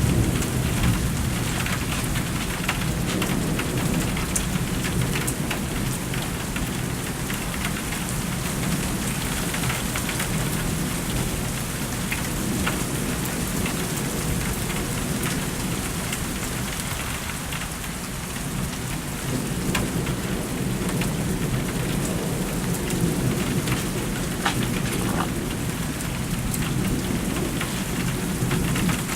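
Steady rain falling, with scattered drop ticks, over a continuous low thunder rumble that swells and eases, dipping briefly past the middle.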